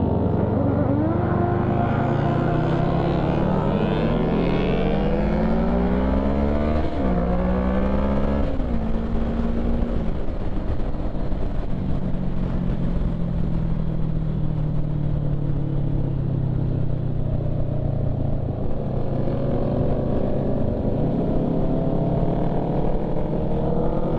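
Kawasaki Ninja 650's parallel-twin engine pulling away and accelerating, its pitch rising and then dropping at two gear shifts about seven and eight and a half seconds in. It then cruises at a steadier pitch, and the revs climb again near the end.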